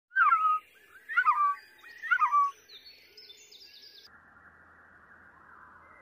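Bird calling: three loud, quick phrases about a second apart, each made of short falling chirps. Fainter, higher notes follow, and a little after four seconds the calls stop, leaving a faint hiss.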